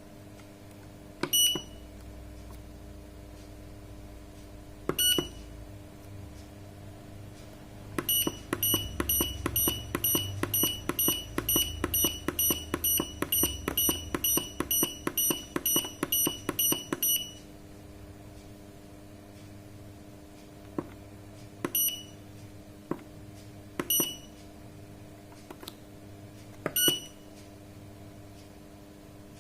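Sanken digital solar water heater controller's keypad beeping as its buttons are pressed: a few single short high beeps, then a fast even run of about twenty beeps, a couple a second, then more single beeps.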